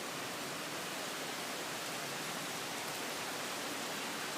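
Rain falling steadily during a thunderstorm, an even hiss with no thunder.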